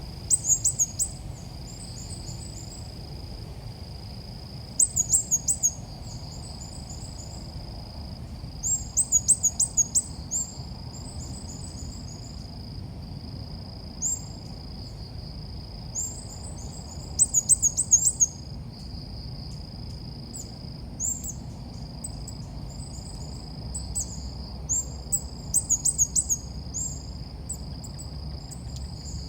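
Bulbul calling: groups of quick, sharp high chirps every few seconds, with single notes between them, as on a lure track played to call the birds in. A steady high-pitched whine and a low rumble run underneath.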